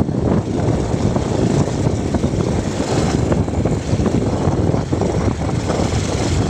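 Wind buffeting the microphone, with the motorcycle's engine and road noise underneath, while riding at speed; a steady, loud rush.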